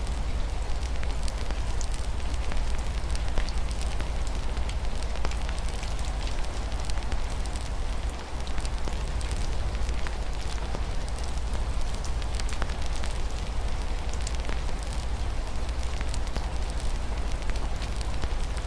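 Wood fire crackling, with frequent sharp pops scattered over a steady hiss of rain against a window and a constant low rumble underneath.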